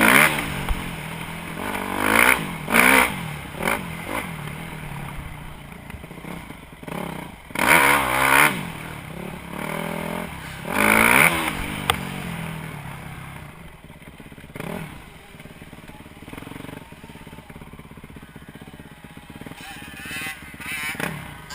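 Dirt bike engine revving up and dropping back over and over, with the loudest surges near the start, about eight seconds in and about eleven seconds in, then running more quietly through the second half.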